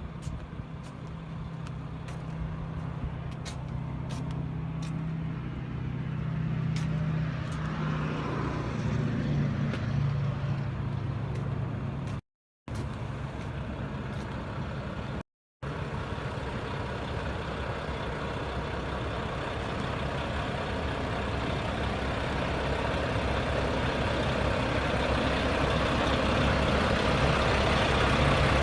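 A truck's engine running steadily with a low hum and a few faint ticks, then a rising wash of engine and road noise through the second half. The sound drops out briefly twice.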